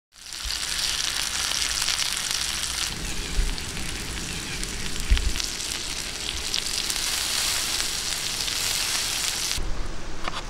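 Steak and eggs in bell pepper rings sizzling as they fry on a hot stone slab, a dense steady hiss that changes at an edit about three seconds in. Near the end the sizzling stops and a knife clicks a few times against a wooden cutting board as the steak is sliced.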